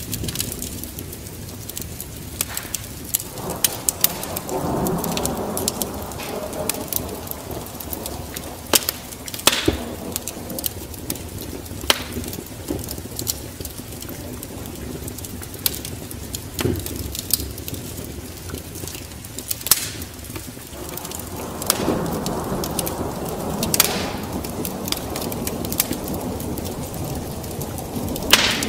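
Wood fire crackling with scattered sharp pops over steady rain, with two long rolls of thunder, one about four seconds in and another a little after twenty seconds in.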